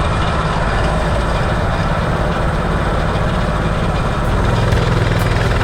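Coleman CT200U minibike's small single-cylinder four-stroke engine running at a steady speed.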